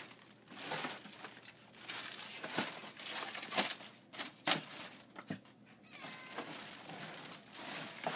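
Plastic wrapping crinkling and rustling in irregular bursts as plastic-wrapped parts are handled and lifted out of a cardboard box, loudest about three and a half and four and a half seconds in.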